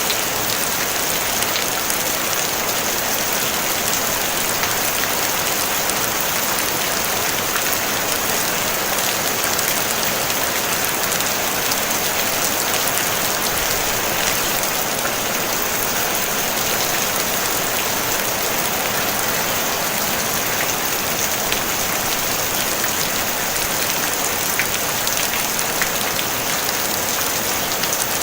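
Steady rain pattering on a tin roof: a dense, even hiss of drops with fine ticks of individual hits, unchanging throughout.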